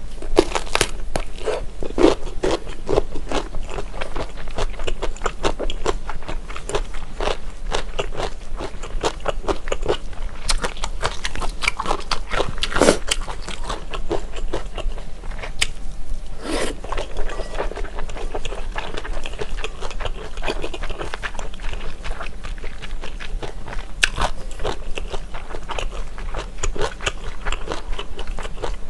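Close-up ASMR eating sounds of a person chewing Chinese glass noodles: many wet clicks and smacks of the mouth, steady throughout.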